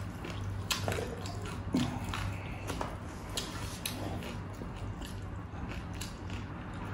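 Close-up eating sounds: wet chewing and lip smacking from people eating crispy fried pork and rice by hand. Short, scattered clicks and smacks sound over a low steady hum.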